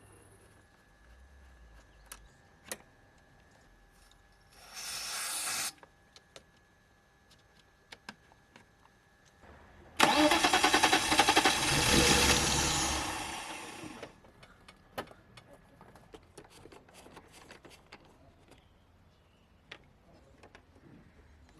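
A 1998 BMW E39 520i's straight-six being cranked by its starter for about four seconds, with a fast pulsing beat that fades out as the cranking stops: the engine turns over but does not catch, a crank-no-start. A shorter, quieter burst comes about five seconds in, and light clicks are scattered throughout.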